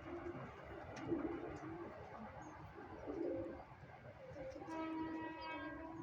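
Domestic pigeons cooing in low, repeated phrases. Near the end, a steady pitched tone sounds for about a second and a half.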